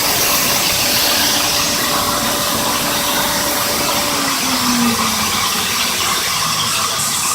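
Homemade sawmill running with a loud steady hiss; its motor hum falls in pitch and fades out about four to five seconds in.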